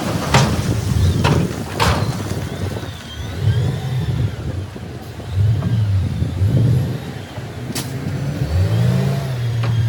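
Heavy-machinery diesel engine revving up and down, with several sharp clanks or thuds.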